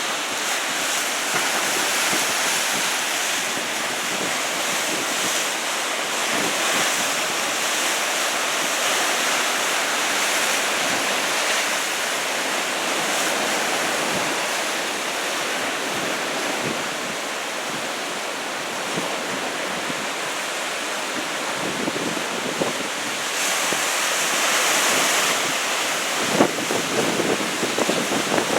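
Heavy typhoon-swell surf breaking and washing in, a continuous rushing hiss, with wind buffeting the microphone. A few short knocks or crackles come near the end.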